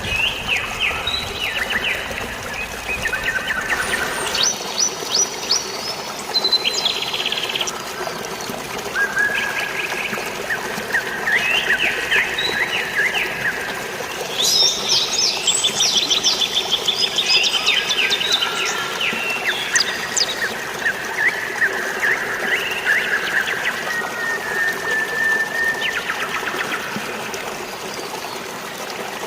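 Several songbirds singing in short, rapid chirping and trilling phrases, one after another, over a steady wash of flowing water.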